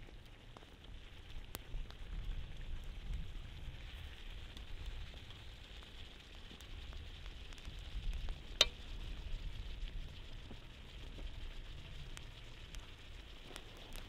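Food frying in hot oil, a steady sizzle, with one sharp click a little past halfway through.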